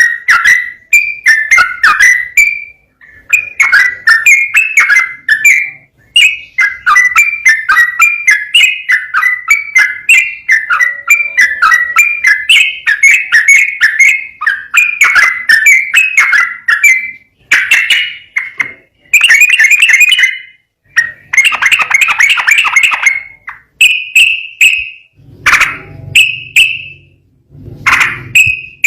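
Yellow-vented bulbul (trucukan) singing its long, rapid bubbling song in phrases of a few seconds with short pauses between them, the continuous run of notes bird keepers call 'ropel'. A low hum sounds under the last few phrases.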